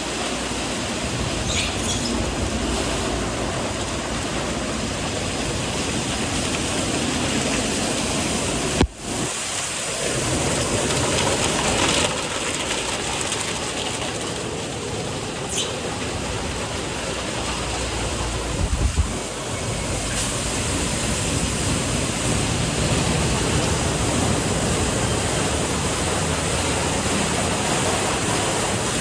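Automatic car wash tunnel running: a steady rush of water spraying onto a car, mixed with the wash equipment working, with a few low thumps about two-thirds of the way through.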